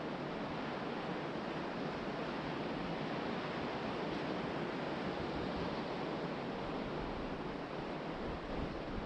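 Ocean surf washing steadily onto a beach as a continuous rush, with wind blowing across the microphone.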